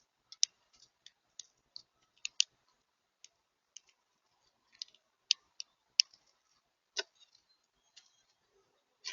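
House sparrow pecking at seed on a feeder: irregular sharp clicks and taps, about one or two a second, a few of them louder.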